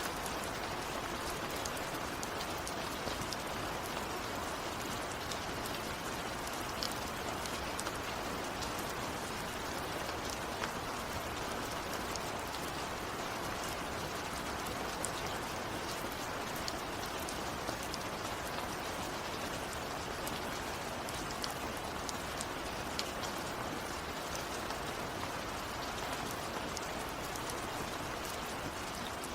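Steady rain falling, with many individual drops ticking sharply against a surface through the even hiss.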